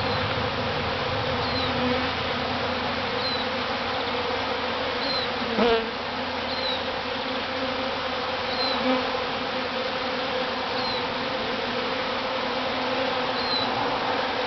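A large honeybee swarm buzzing steadily and densely close around the microphone as it moves into a hive box. One bee zips past very close about six seconds in.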